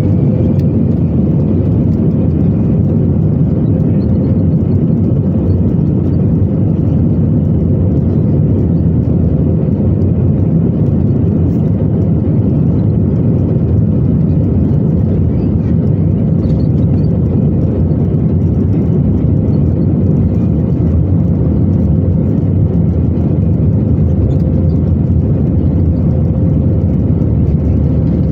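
Inside the passenger cabin of an Airbus A320-214, its CFM56 turbofan engines and the airflow make a steady, loud noise with a thin steady whine above it.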